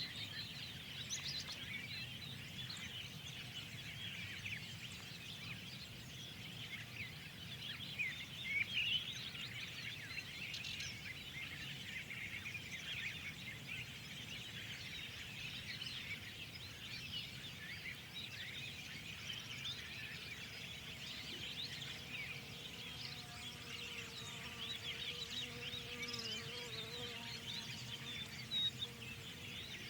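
Many small birds chirping and twittering at once in a dense, continuous spring chorus, with a few louder calls about nine seconds in and near the end, over a faint steady low background noise.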